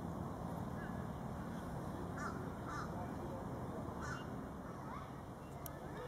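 A bird calling three short times, about two seconds in, near three seconds and near four seconds, over a steady low rumble.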